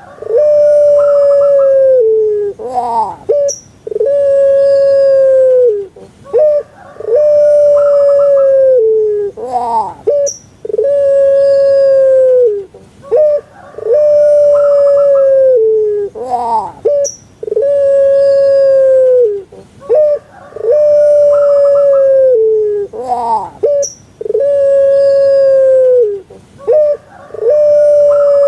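Puter pelung dove (Streptopelia risoria) cooing its long song over and over: a few quick notes sliding upward, then one long, steady coo held for about two seconds, repeating about every three and a half seconds.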